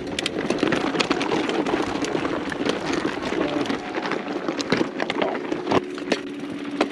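Mountain bike riding down a rough dirt singletrack: a steady rush of tyres on dirt, with the bike rattling and many sharp clicks and knocks as it goes over rocks and roots.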